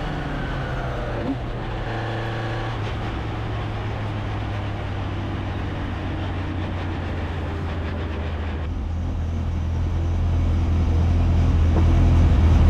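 Race car engine running steadily at a low idle, getting louder toward the end.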